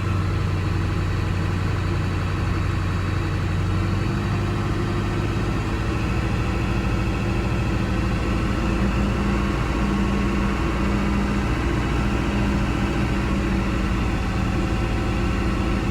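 Ford 7.3 L Power Stroke V8 turbodiesel idling steadily, heard through the truck's open windows, with small shifts in its tone about four and ten seconds in. The truck is running on a suspect injection control pressure (ICP) sensor and barely holding its idle.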